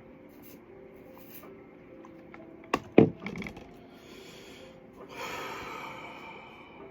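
Someone pausing to drink water: two sharp clicks close together about three seconds in as the drinking vessel is handled, then a breathy exhale near the end.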